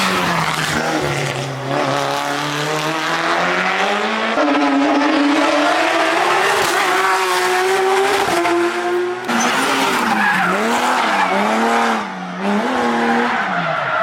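Hill-climb race car engine accelerating hard, its pitch climbing with brief breaks at the gear changes. Toward the end the revs swing rapidly up and down several times, with tyre squeal.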